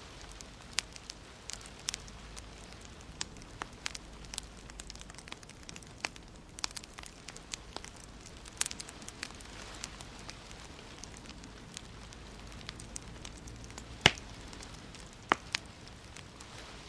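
Wood fire crackling in a fireplace: a steady soft hiss with irregular sharp pops and snaps, the loudest pop about fourteen seconds in.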